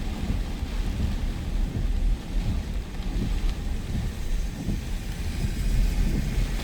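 Storm wind gusting and buffeting the microphone in a constant low rumble, with a hiss of heavy rain underneath.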